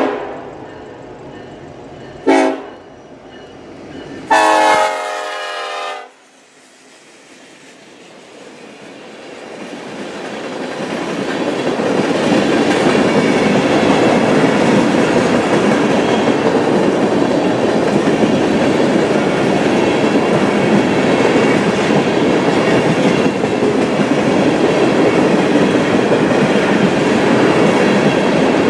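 Freight locomotive air horn sounding a short blast and then a longer one, followed by the train approaching and its tank cars rolling past with a steady rumble and clatter of wheels on rail.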